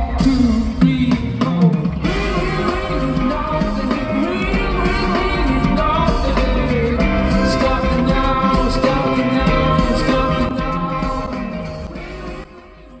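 Live rock band performance: a sung melody over electric guitar and a full band, fading down near the end.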